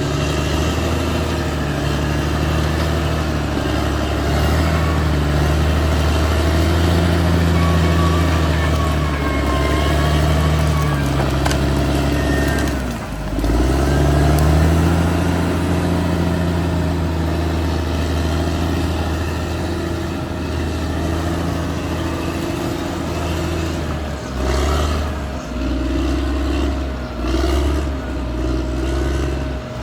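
Caterpillar D6R XL bulldozer's diesel engine working under load, its note rising and falling as the blade pushes. It dips briefly about halfway through, and near the end the sound comes and goes in uneven surges.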